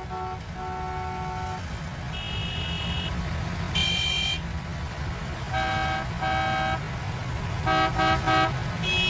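Car horns honking: a series of separate blasts at several different pitches, some long, some short, including three quick toots near the end, over a steady low rumble.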